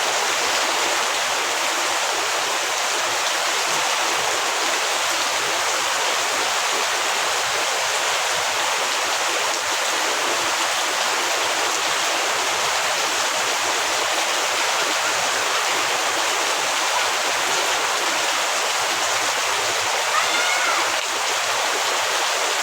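Heavy rain falling steadily, an even, unbroken hiss of rainfall. A brief faint pitched call is heard near the end.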